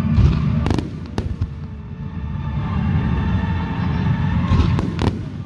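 Fireworks bursting in the air with sharp bangs, a pair of them about a second in and another pair near the end, over loud background music from the show.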